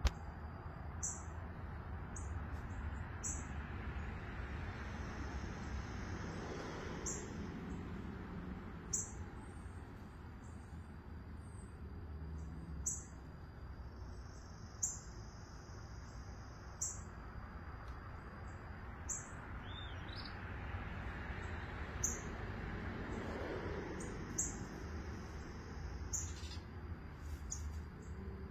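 Birds calling: short, high chirps repeated every second or two over a steady low background rush that swells twice.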